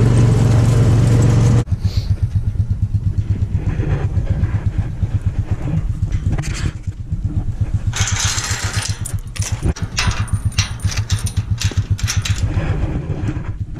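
A farm vehicle's engine running steadily, then dropping suddenly about a second and a half in to a lower, evenly pulsing idle. Bursts of hiss come and go over the engine in the second half.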